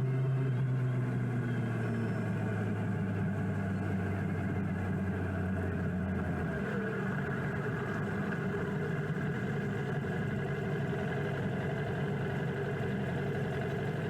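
2006 Yamaha R1's inline-four engine running steadily at low speed. Its lowest note drops away about halfway through.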